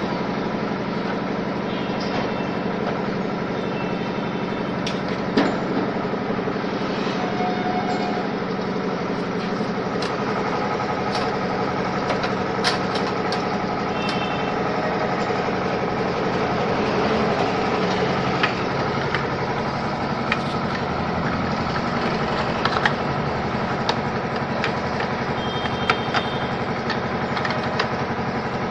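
A small electric motor running steadily, with scattered light clicks and a few faint short high beeps.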